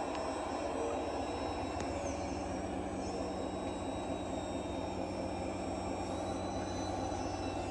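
Scale RC model vehicle running: a steady drone of its electric motor and gears, with a thin high whine that shifts slightly in pitch now and then.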